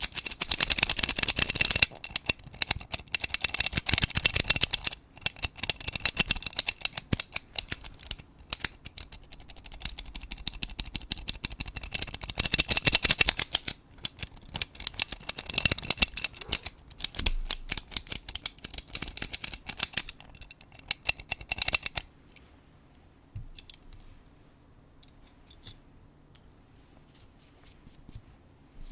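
Close scratching and brushing with rapid clicky crackles, coming in loud spells, over the steady high chirring of crickets. About three-quarters of the way through the scratching stops and only the crickets remain.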